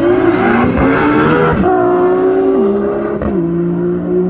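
Nissan GT-R engines accelerating hard from a standing start. The pitch climbs, then drops in steps at the gear changes.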